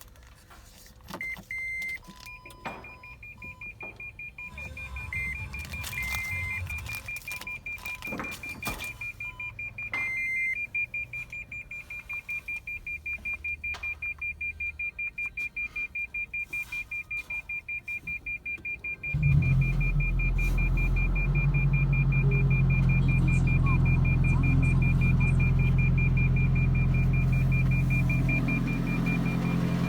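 Dashboard chimes followed by a fast repeating high beep as a 2010 Toyota Prius hybrid is switched on. About two-thirds of the way through, its 1.8-litre 2ZR-FXE four-cylinder petrol engine starts suddenly and runs steadily.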